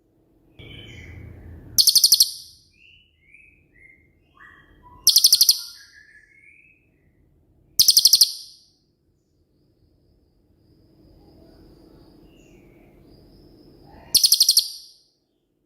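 Cililin bird singing its 'shot' song: four loud, very high, rapid trills, each about half a second long, spaced a few seconds apart. Between the first trills come softer, short descending whistled notes. A faint low hum runs underneath in places.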